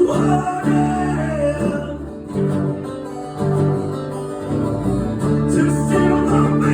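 Live acoustic band music: an acoustic guitar playing sustained chords.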